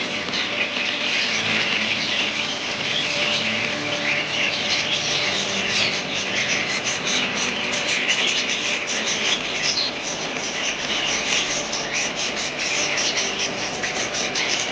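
A flock of budgerigars chattering, many birds chirping at once in a dense, unbroken stream of short high calls.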